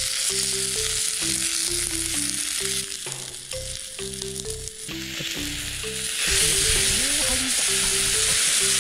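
Tara sprouts and shiitake sizzling in olive oil in a small cast-iron skillet over a wood fire. The sizzle is steady and grows louder about six seconds in.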